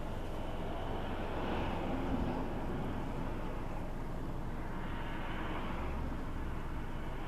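Road traffic passing on a snowy road: a steady noise of tyres and engines that swells as vehicles go by, about two seconds in and again around five seconds.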